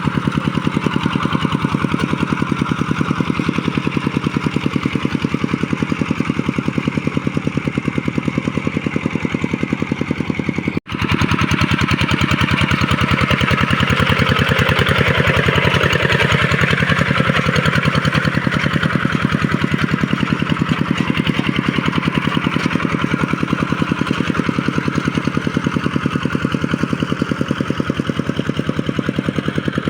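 Tractor engine running with a rapid, even beat, briefly cutting out about eleven seconds in.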